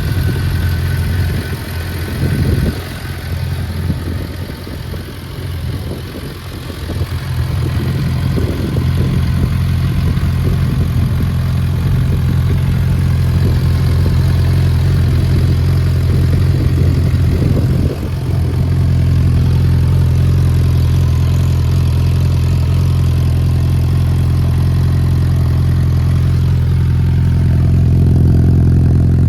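Suzuki GSF650S Bandit's 656 cc inline-four idling through a Black Widow aftermarket exhaust with its dB killer fitted. The level is uneven for the first several seconds, then the idle settles and holds steady.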